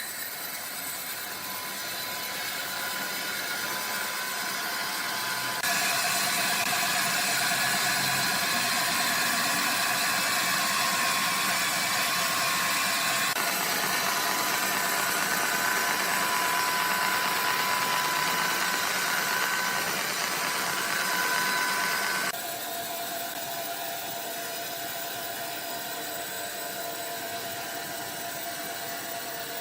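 Sawmill machinery running with a steady noise and faint whines, changing suddenly three times.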